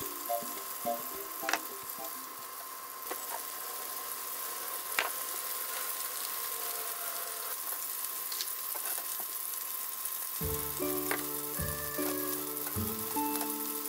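Chicken thighs sizzling steadily as they fry in oil in a frying pan, with a few sharp clicks. Background music with a bass line comes in about ten seconds in.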